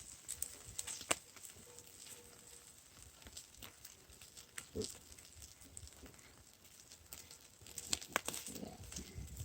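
Campfire crackling under a pan of food frying, with scattered sharp pops and a cluster of louder pops near the end.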